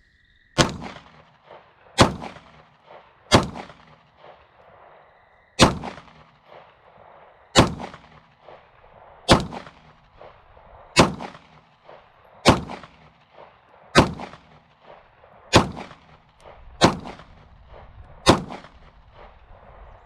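A 9mm Polymer80 Glock 19 build firing twelve slow, evenly spaced shots, one every second and a half to two seconds, each crack trailing off in a short echo. The pistol cycles through without a failure to feed or eject.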